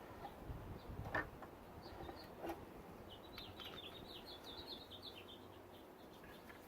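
Faint bird twittering: a quick run of short high chirps about halfway through. Before it come a couple of light clicks or knocks from tools or parts being handled.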